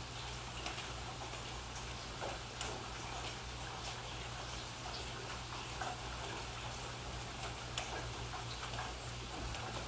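Steady rain hiss with irregular drops ticking several times a second, over a steady low hum.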